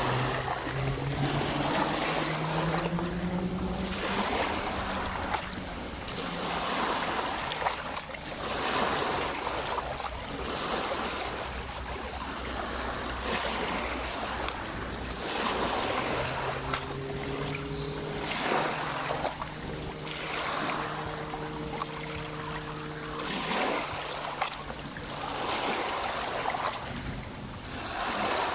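Small waves lapping against the shore of Lake Balaton, surging every second or two. A motor's hum rises in pitch over the first few seconds and returns steadily for several seconds past the middle.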